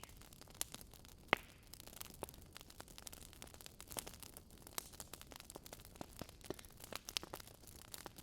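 Campfire of dry wood crackling: irregular snaps and pops from the burning wood, with one loud crack about a second in.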